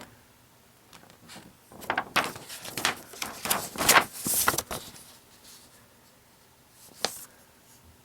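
Paper brochures being handled: about three seconds of rustling and sliding strokes, then a single sharp tap about seven seconds in.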